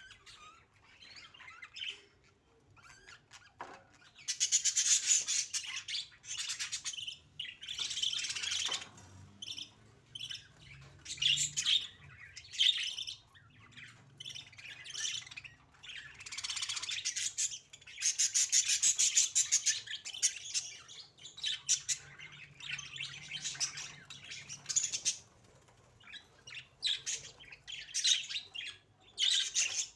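Budgerigars chattering and chirping in repeated bursts of a few seconds each, with short pauses between.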